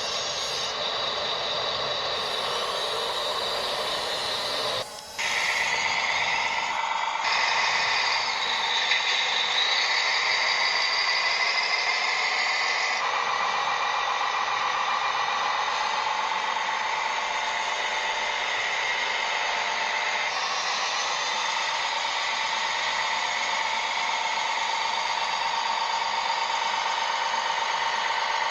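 Steady whine of small electric motors and gearboxes in radio-controlled construction models running, changing pitch abruptly several times along the way.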